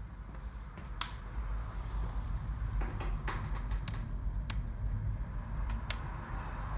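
Wood fire burning in a fireplace, with a low steady rumble and a few sharp crackling pops spaced irregularly through it.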